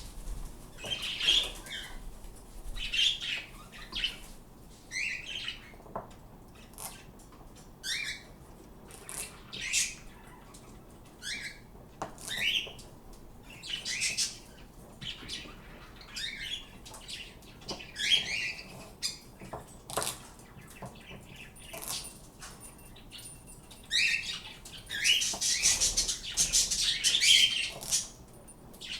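Pet birds calling: repeated short, high chirps, growing into a dense burst of calling near the end, with a few sharp clicks in between.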